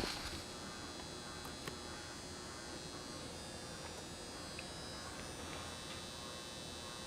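A steady, faint electrical hum and buzz with a high whine, broken by a few light ticks.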